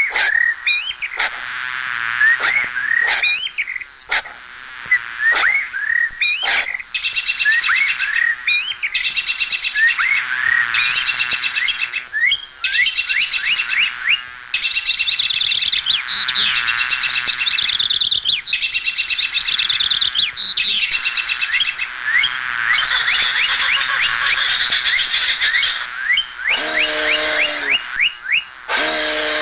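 Many small birds chirping and twittering, with quick rising chirps and fast trills overlapping throughout. Near the end a lower, pitched animal call sounds briefly, twice.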